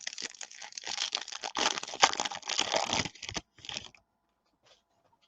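Crinkling and tearing of a trading-card pack wrapper being ripped open and handled, dense and crackly, stopping about four seconds in.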